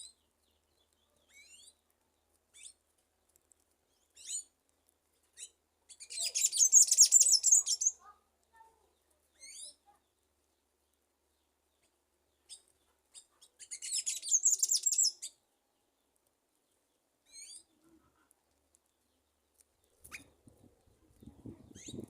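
Sayaca tanagers calling: thin, high chirps that slide downward, one every second or so, with two louder bursts of dense high twittering lasting about two seconds each, one about six seconds in and one about thirteen seconds in. A low rustle comes in near the end.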